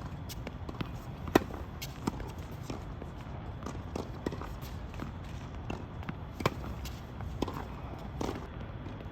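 Tennis rally: tennis balls struck by racket strings and bouncing on a hard court, a string of sharp pops a second or two apart, the loudest hits about a second and a half in and again about six and a half seconds in. Shoes scuff and step on the court under a steady low background rumble.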